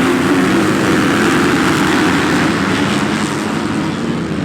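Several motocross bikes running at high revs on the track, a loud, steady engine sound.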